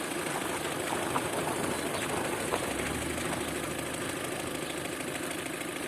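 Opel Astra engine idling steadily with a faint, irregular knock from the intake manifold, diagnosed as the intake manifold flaps knocking.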